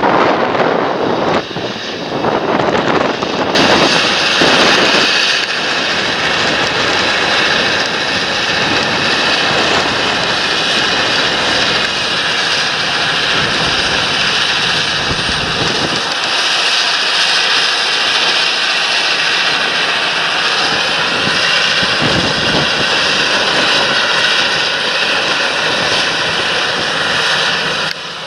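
Large John Deere tractor engine and cooling fan running steadily under field work, with a faint whine over the noise. It gets louder and brighter about three and a half seconds in. Wind buffets the microphone at the start.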